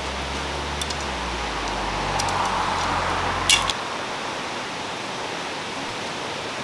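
Steady rushing of a valley stream, with a low rumble that cuts off suddenly about three and a half seconds in and a few light clicks and knocks of camping gear being handled, the loudest just before the rumble stops.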